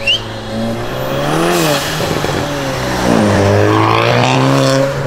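Car engine, a SEAT Leon Cupra estate's turbocharged four-cylinder, accelerating away. Its pitch climbs and drops about a second and a half in, then climbs again and holds loudest for the last couple of seconds before falling off. A short sharp click sounds right at the start.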